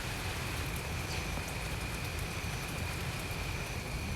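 Steady rain falling, an even hiss with a thin, steady high tone running through it.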